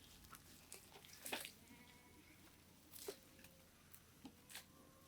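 Near silence with scattered faint clicks and crackles and a few faint held animal calls.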